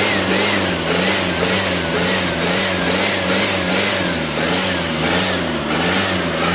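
Hyundai D4BH four-cylinder turbodiesel running steadily out of the vehicle on a test run, with a slight regular waver in pitch.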